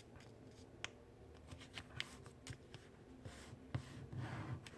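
A sheet of paper being folded and creased by hand: faint crinkles and a few light ticks, with a short rustle near the end.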